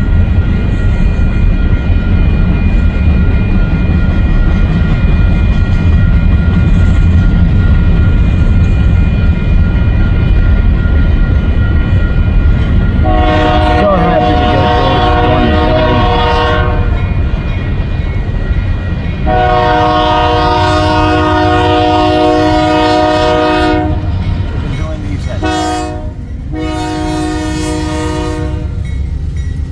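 Union Pacific diesel locomotive hauling a passenger train past at close range, its engine and wheels rumbling loudly. About 13 seconds in it sounds the grade-crossing horn signal: two long blasts, a short one, then a long one, the warning for a road crossing ahead.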